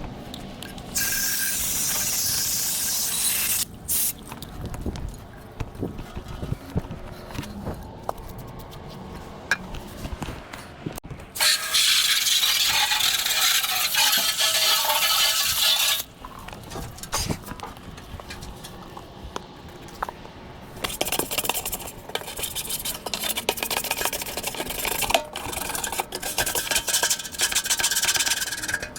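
Furnace blower wheel being cleaned: long hissing spray bursts about a second in and again around twelve seconds in, with scraping and rubbing between them and a busier, scrubbing stretch near the end.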